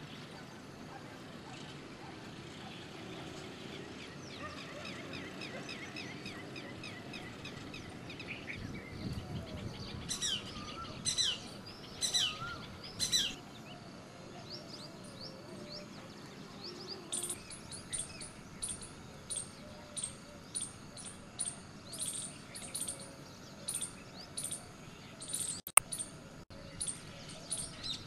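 Shikra calling: first a run of quick notes, then four loud, steeply falling calls, then a steady series of short, shrill calls about one and a half a second. There is a single sharp click near the end.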